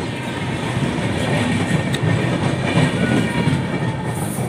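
A passenger train running on the rails, a loud steady rumble with faint whining tones above it.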